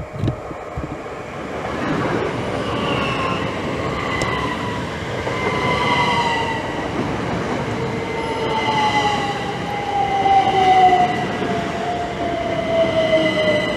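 Class 387 Electrostar electric multiple unit arriving and braking to a stop. Its traction whine falls steadily in pitch as it slows, over a rumble of wheels on rail and a steady high tone.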